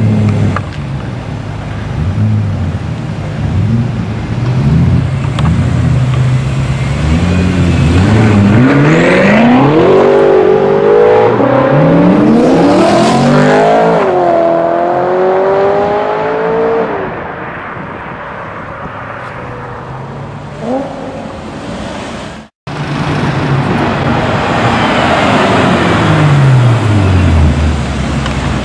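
Loud performance-car engine and exhaust accelerating hard, its pitch climbing in several steps through gear changes, then easing off. After a brief cut, an engine falls steadily in pitch near the end.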